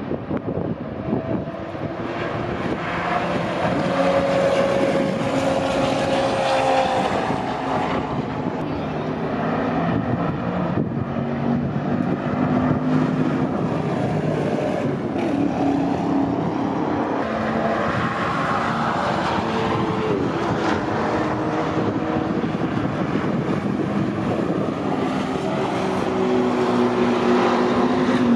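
Several cars' engines running at speed around a speedway oval, their notes gliding and stepping up and down in pitch as the cars pass and change speed.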